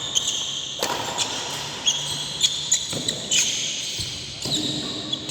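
A badminton rally in a hall: several sharp racket hits on the shuttlecock mixed with high squeaks of shoes on the court floor.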